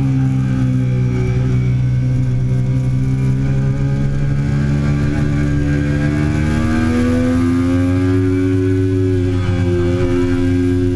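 Triumph Daytona 675's inline three-cylinder engine running hard at sustained high revs, its pitch holding steady and then slowly climbing and easing off again over several seconds.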